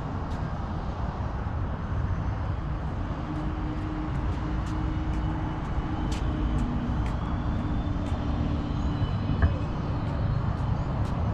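Low, steady rumble of a vehicle engine running nearby. A faint hum comes in a few seconds in and fades before the end, with a few light clicks over it.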